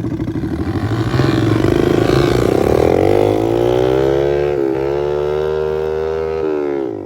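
Pit bike engines going from a pulsing idle to hard revving about a second in as the bikes launch off the start. The engine pitch climbs, dips briefly at a gear change, then falls near the end as the bikes pull away.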